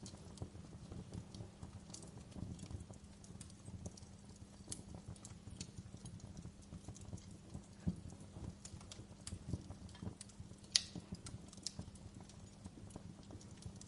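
Wood fire crackling in a fireplace: a steady low rumble of burning logs with irregular snaps and pops, the sharpest one a little before eleven seconds in.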